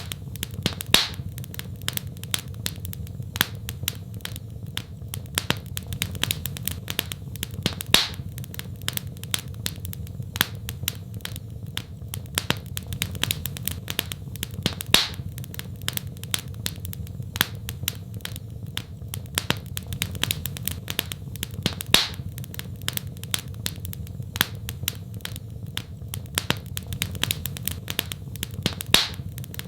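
Wood fire crackling in a fireplace: a constant patter of small snaps over a low steady rumble, with a louder pop about every seven seconds.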